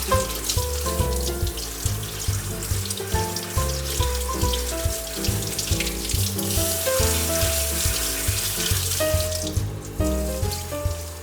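Water running from a tap into a sink, cutting off near the end, over background music with a steady bass line.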